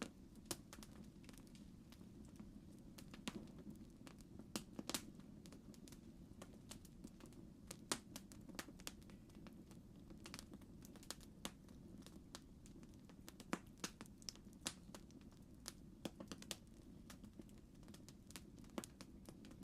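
Faint campfire crackling: irregular sharp pops and snaps over a low steady rumble.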